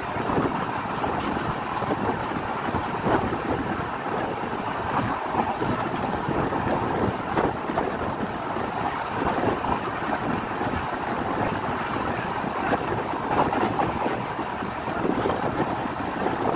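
Passenger train coach running at speed, heard from an open window: a steady rumble of steel wheels on the rails mixed with rushing wind, with irregular light clicks and knocks throughout.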